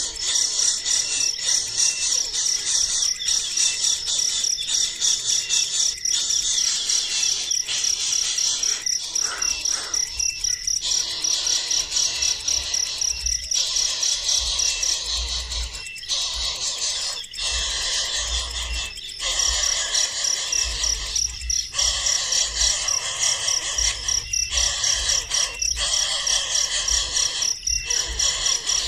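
Crickets chirping in a steady, rapid high-pitched pulse over a dense insect buzz, with a low rumble now and then.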